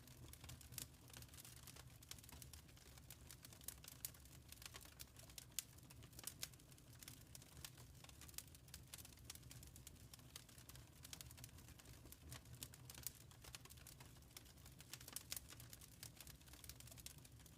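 Wood fire crackling faintly in a fireplace, with frequent irregular snaps and pops over a low steady rumble.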